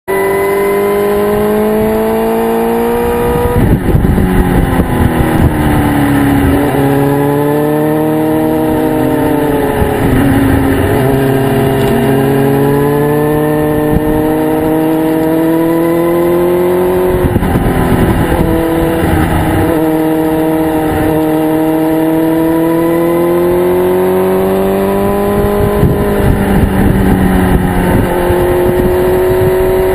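Motorcycle engine running hard along a twisting road, its pitch climbing as it pulls through each stretch and then falling away sharply as the throttle is rolled off for the next bend, several times over.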